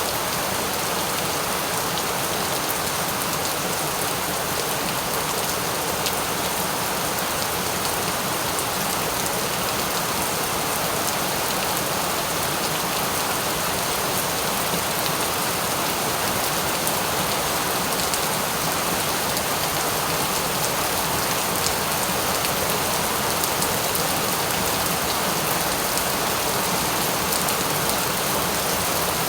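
Steady rain falling on a surface, an even hiss with faint patter of individual drops.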